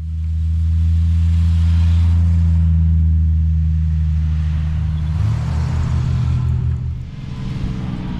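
Vehicle engine running with a steady low hum, its note shifting about five seconds in and turning rougher near the end.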